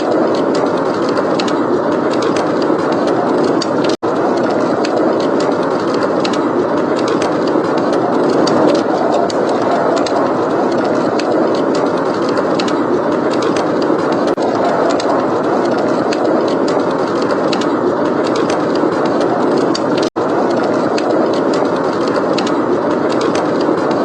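Steady blizzard wind with a fireplace crackling over it, many small sharp pops scattered through the rushing. The sound cuts out for an instant twice.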